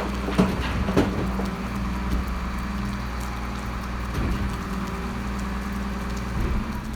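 Garbage truck's diesel engine running steadily nearby, with two sharp knocks about half a second and a second in.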